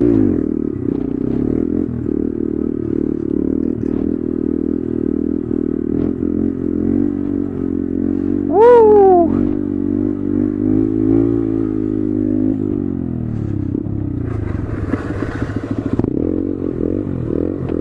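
Honda Grom's 125cc single-cylinder engine running through an aftermarket exhaust fitted with a baffle, its pitch rising and falling as it is ridden. A sharp rise and fall in pitch about nine seconds in is the loudest moment.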